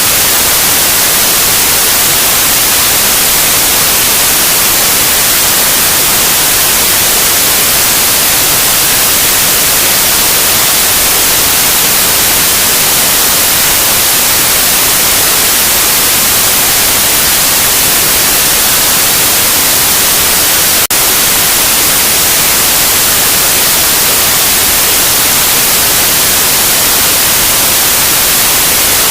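Loud, steady white noise: an even hiss, brightest in the highs, with one very brief dip about two-thirds of the way through.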